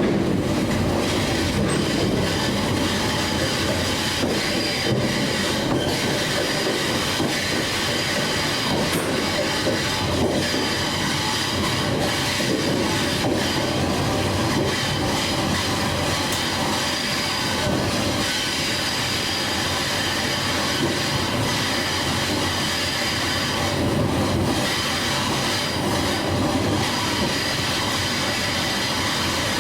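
Railway train running along the track: a steady, unbroken rumble of wheels on rails with a few steady high tones above it.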